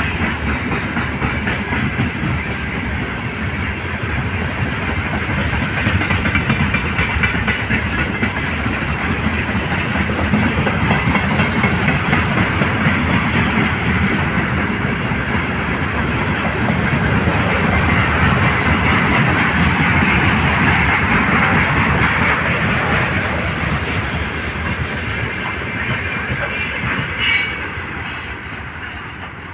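Freight train rolling past, wheels clattering over the rail joints in a steady run, with a brief sharp noise and then the sound fading away near the end.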